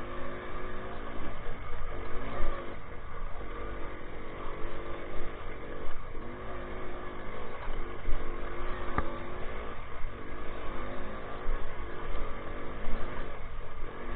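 Minsk motorcycle's two-stroke single-cylinder engine running under way, its revs rising and falling again and again as it is ridden off-road, with a single knock about nine seconds in.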